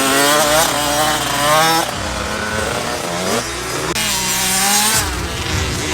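Motocross dirt bike engines revving hard on the track, pitch climbing and dropping over and over as riders work the throttle through the jumps, with the loudest runs in the first two seconds and again about four seconds in.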